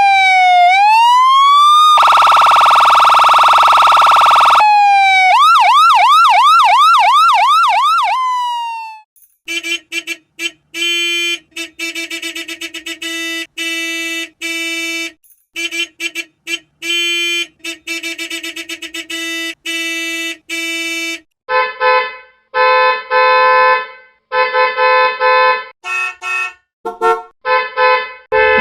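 An electronic siren alarm cycling through its tones. It starts with a gliding wail and a steady blare, shifts to a fast yelping warble, then runs through patterns of rapid rhythmic beeps, the last set lower in pitch.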